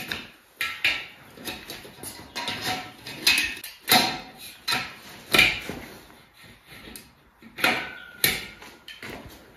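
Irregular knocks and clacks of railing parts being fitted together and tapped into place. There are about a dozen, some sharper and louder than others.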